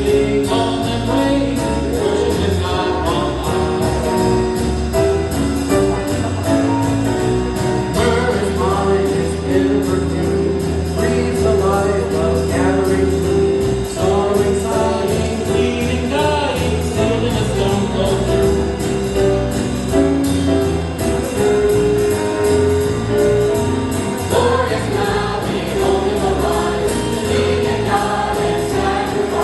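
Church choir singing a jazz-styled Christmas song with instrumental accompaniment and a steady bass line.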